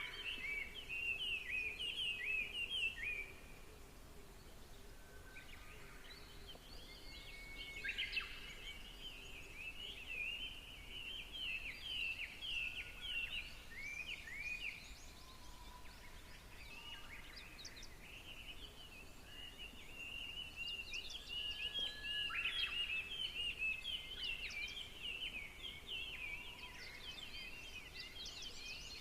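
Birdsong: several birds chirping and trilling in quick repeated phrases, in bouts with short lulls between them, over a faint steady hum.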